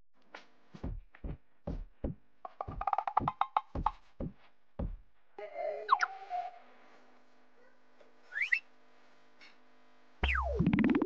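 Cartoon sound effects: a quick run of short bouncy notes that drop in pitch into low thumps, then a couple of quick rising whistle slides, and near the end a long falling slide-whistle note over a low thud.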